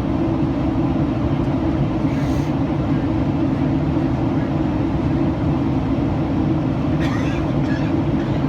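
Steady cabin noise inside a Boeing 737-800 in flight: airflow rushing over the fuselage together with the hum of its CFM56 engines, even and unbroken.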